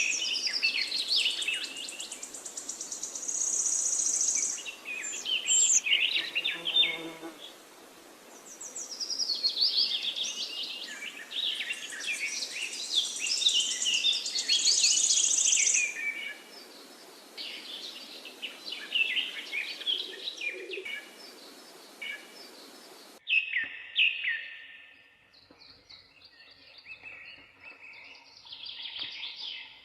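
Several songbirds singing and chirping together in a dense chorus of overlapping trills and tweets, over a steady background hiss. About three-quarters of the way through, the hiss cuts out abruptly and fewer, sparser bird calls carry on.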